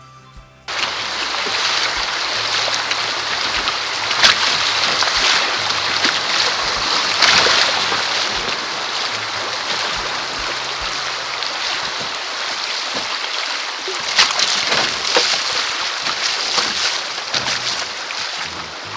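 Rushing, splashing creek water around a kayak running through riffles, starting abruptly about a second in, with sharp splashes scattered through it.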